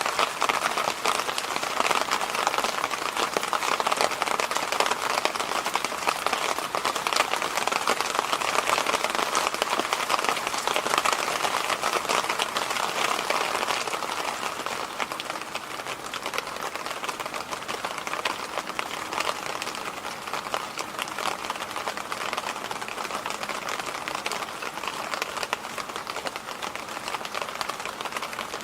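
Electric fan running steadily: an even rushing hiss of moving air with a fine, grainy crackle in it. It gets a little quieter about halfway through.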